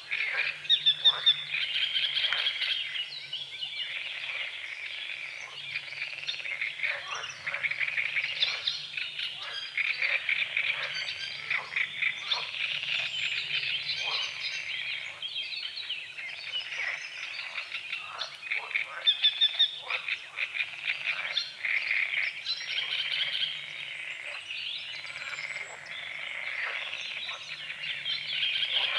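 A chorus of many frogs croaking, with dense overlapping rattling calls that never stop. Birds sing faintly behind them.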